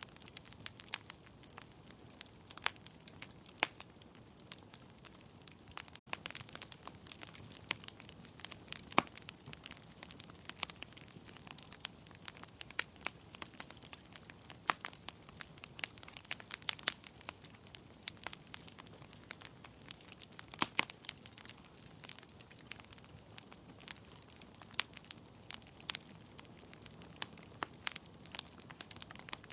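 Wood fire burning in a fireplace: logs crackling and popping irregularly over a low hiss of flame.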